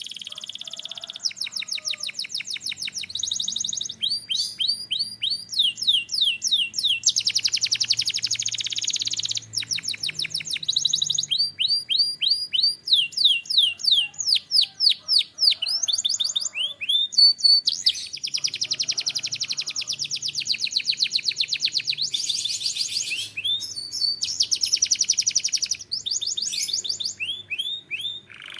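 Canary singing a long, loud song made of rapid trills, each a quick run of repeated notes, switching to a new trill every second or two with short breaks between some phrases.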